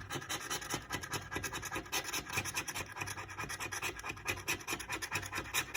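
A scratch-off lottery ticket's coating being scratched away in rapid, repeated strokes.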